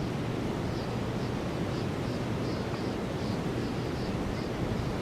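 Steady rush of wind and flowing river water, with a run of faint high chirps repeating about twice a second.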